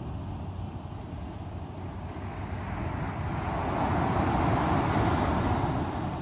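Sea waves rolling onto the shore with a steady low rumble; a wave swells and breaks about halfway through, loudest just after the middle, then washes back.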